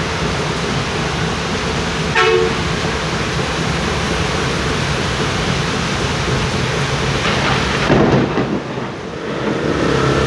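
Heavy rain pouring down in a steady, loud rush. About two seconds in a brief pitched sound cuts through, and near the end the rush swells for a moment, then briefly sounds muffled.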